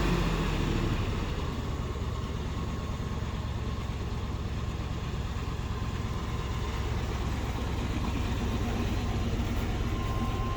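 Chevrolet Tahoe engine idling steadily, a low rumble that eases down in the first second and then holds level.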